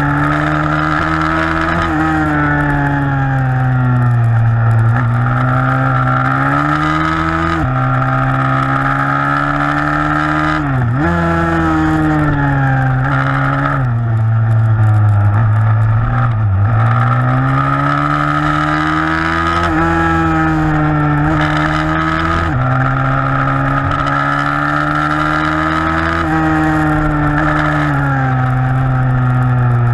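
A 160cc pit bike's single-cylinder four-stroke engine racing, its revs rising and falling with the throttle through corners and its pitch jumping sharply at gear changes, about four times.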